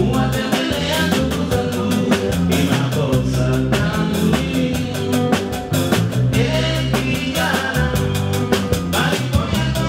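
Live band playing, with a drum kit keeping a steady, quick beat of cymbal strokes over bass and melody lines.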